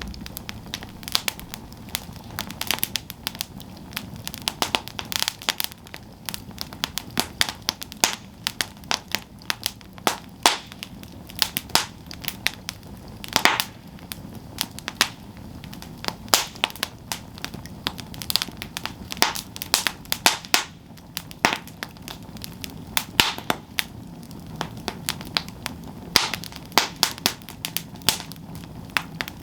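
Wood campfire burning, with dense irregular crackles and sharp pops over a low steady rumble of the flames.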